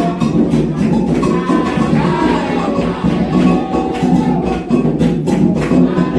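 Candomblé ritual music: atabaque hand drums beating a fast, steady rhythm under voices singing a chant for the orixás.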